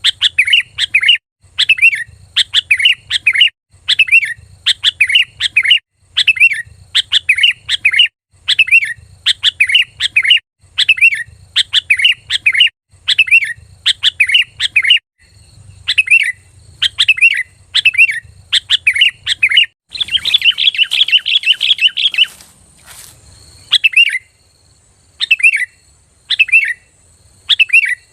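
Sooty-headed bulbul (kutilang) singing: short, clear phrases of a few notes repeated about once a second, breaking into a fast continuous chatter around two-thirds of the way through, then sparser phrases near the end.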